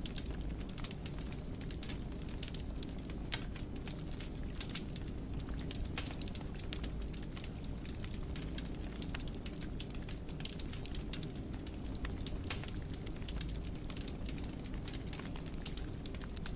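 Wood fire burning in a fireplace, with a steady low rumble and frequent sharp crackles and pops, several a second, one louder pop about three seconds in.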